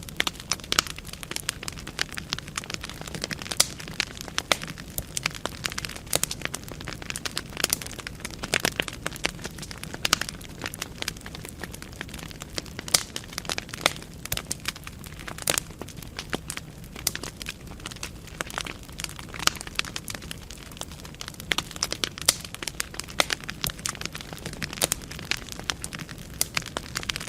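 Wood fire burning in a fireplace: frequent irregular sharp crackles and pops from the burning logs over a steady low rumble of the flames.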